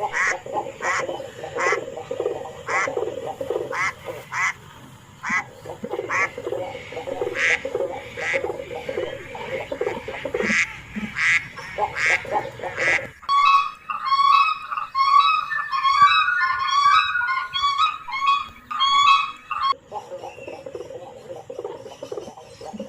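Ducks quacking over and over, a call every half second or so. About 13 seconds in, it cuts to several seconds of quick, high-pitched bird chirping, then the quacking returns.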